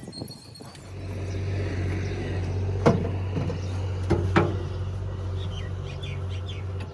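A machine running with a steady low hum that starts about a second in, with three sharp knocks, the last two close together.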